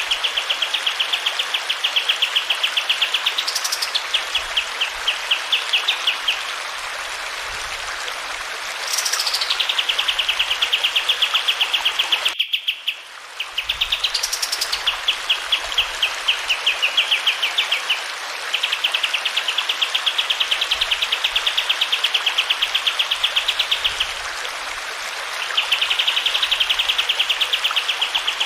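Kapas tembak bird singing: long, fast trills broken by sharp rising calls, over a steady rush of running water. The song stops briefly about halfway through, then starts again.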